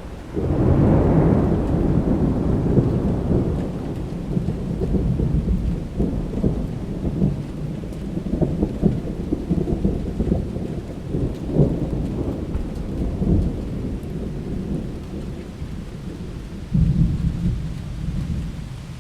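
Thunder rolling over steady rain: a deep rumble breaks in suddenly just after the start, crackles and rolls on, and swells again near the end.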